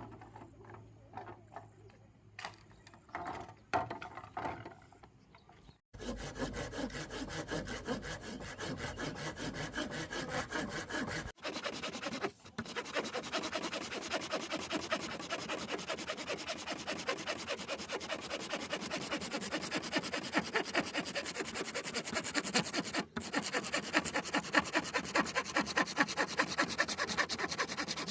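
Hand saw cutting bamboo in a fast, steady rhythm of rasping strokes. It starts about six seconds in, after a few light knocks, and is broken by a few brief gaps.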